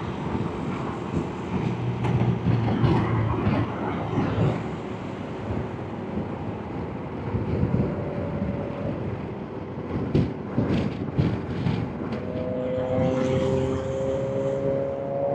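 Motorcycle on the move: the engine runs steadily under road and wind noise, with a few sharp knocks partway through and a steadier tone coming in near the end.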